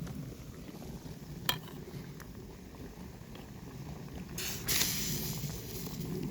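Campfire burning with a steady hiss, a single sharp pop about a second and a half in, and a louder hissing rush a little past the middle.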